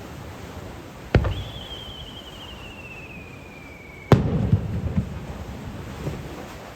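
A firework shell launching with a sharp thump, its whistle trailing slowly down in pitch for about three seconds, then bursting with a loud bang followed by rumbling echoes.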